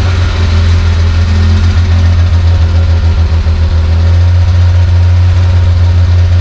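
Suzuki Carry DC51T kei truck's 660 cc three-cylinder engine idling roughly, a low hum that flutters unevenly. The unstable idle comes from a leaking hose that the owner found torn and holed; spraying CRC on it raises the idle speed.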